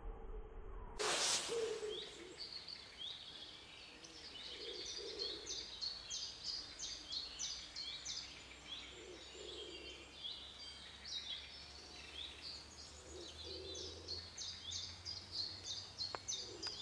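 Small birds singing: many short, high chirps and whistled notes, repeating over and over from about a second in, over faint background noise.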